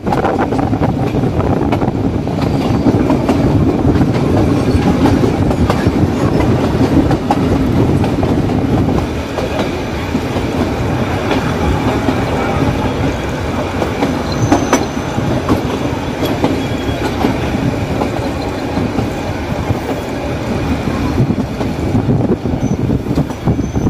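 Diesel-hauled Nilgiri Mountain Railway train running steadily, its wheels clattering over the rail joints.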